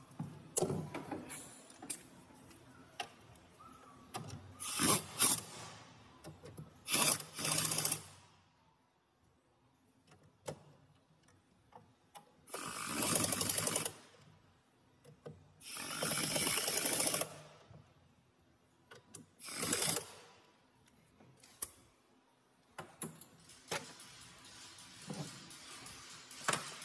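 Hand tools working on fasteners during a fan clutch replacement: scattered clicks and knocks, with several bursts of ratcheting lasting one to two seconds each.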